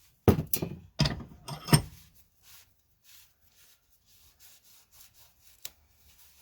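Metal part handled on a workbench: three loud knocks in the first two seconds, the last with a faint high metallic ring, then faint rubbing and one small click.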